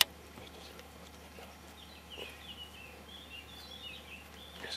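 A sharp click right at the start, then a small bird singing a quick run of warbling chirps for about two seconds, from about two seconds in.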